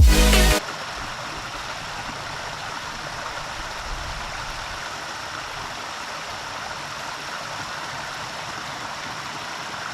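Electronic dance music cuts off about half a second in, leaving the steady rush of a waterfall.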